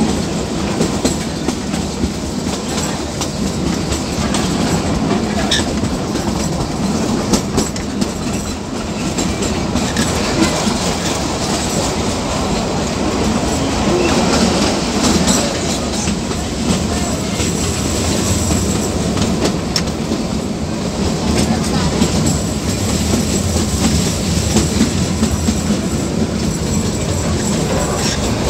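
Kalka–Shimla narrow-gauge toy train running, heard from aboard: a steady rumble of the coaches with the wheels clattering and clicking over the rail joints.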